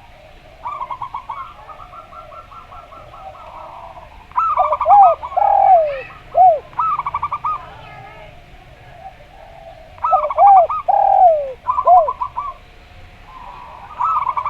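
Zebra dove (perkutut) and spotted dove (derkuku) calling back and forth. The zebra dove gives rapid stuttering runs of short high coo notes, and the spotted dove answers with lower, drooping coos. The exchange is loudest in two bouts, about four seconds in and about ten seconds in.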